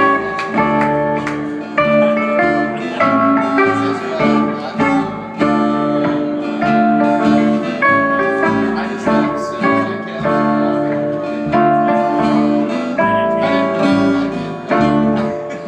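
Guitar picking a run of quick single notes in an instrumental passage of a song, played live.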